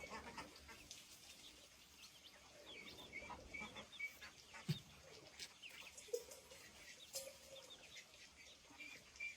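Faint, short high bird chirps repeating irregularly, with scattered light clicks and a soft thump about halfway through.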